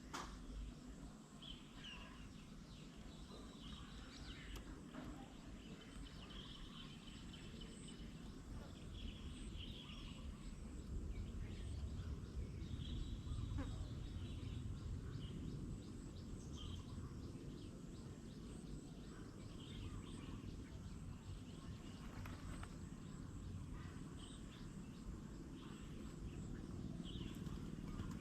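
Outdoor garden ambience: birds calling in short, scattered phrases over a steady low rumble.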